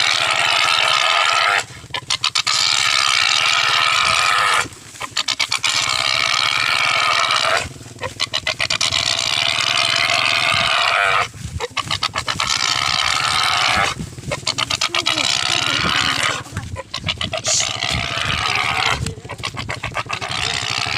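A pig squealing in long, loud, shrill screams of two to three seconds each, about eight in a row, broken by quick rapid gasping grunts between them. The cry is likened to a motorcycle revving.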